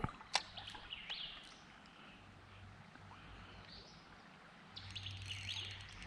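Birds chirping faintly, with a single sharp click under half a second in and a busier burst of chirps near the end.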